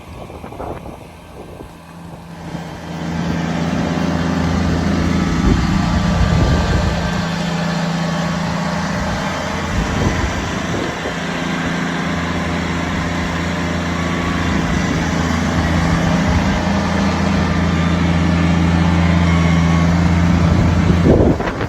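Compact tractor's small diesel engine running steadily, starting up about two seconds in and cutting off just before the end.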